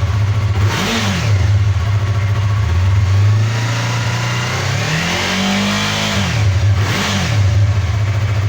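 Yamaha MT-03 321 cc parallel-twin through its stock exhaust, idling and being revved: a quick blip about a second in, a longer rev held for a second or so in the middle, and another quick blip near the end, each dropping back to idle.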